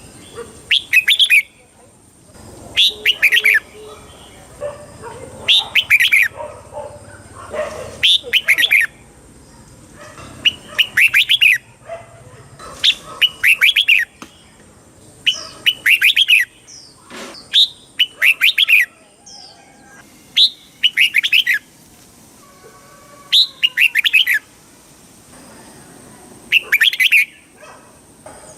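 Red-whiskered bulbul singing: short, loud, bright whistled phrases repeated every two to three seconds.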